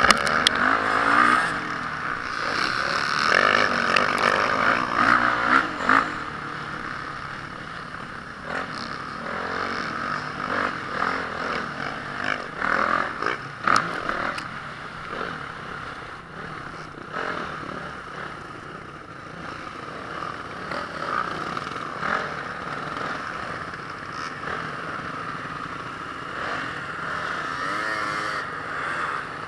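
Honda CRF450R motocross bike's single-cylinder four-stroke engine running and revving under load, with scattered clattering knocks. It is louder over the first six seconds and somewhat quieter after that.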